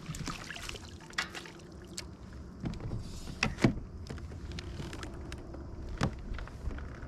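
Scattered knocks and clicks on a kayak, with a sharp close pair past the middle, over a low steady rumble and faint water noise.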